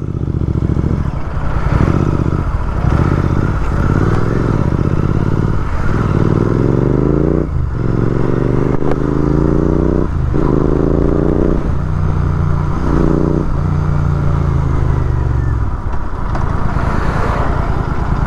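Royal Enfield Continental GT 650's 648 cc parallel-twin engine accelerating hard up through the gears. The pitch climbs and drops back at each of several gear changes, then settles into steady cruising for the last couple of seconds.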